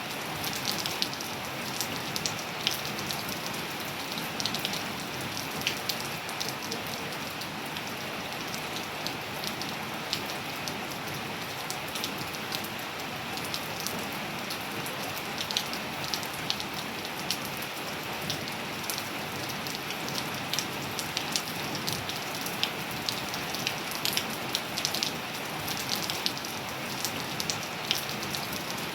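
Steady rain falling and pattering on surfaces, an even hiss with many sharp individual drop ticks.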